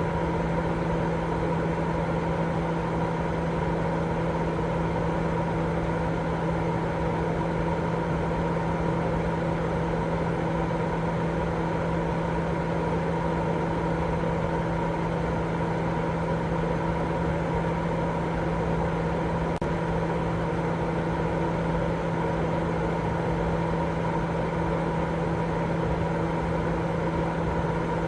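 Continuous baby-sleep white noise: a steady, unchanging hiss, heavier in the low and middle range and fading toward the top, with a steady low hum running through it.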